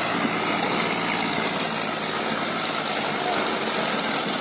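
Eicher tractor's diesel engine running steadily.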